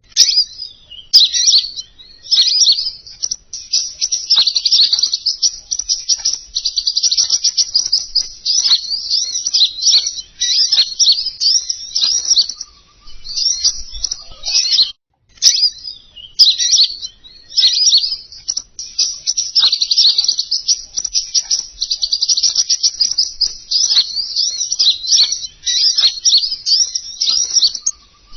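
Recorded song of the king konin bird played as a lure: a near-continuous stream of high, rapid twittering chirps, broken by a couple of short pauses near the middle.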